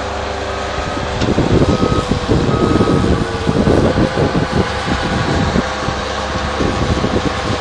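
Bobcat skid-steer loader working snow: its engine runs steadily while the reversing alarm beeps about once a second for the first few seconds. From about a second in until near the end there is loud, rough, irregular scraping and clattering.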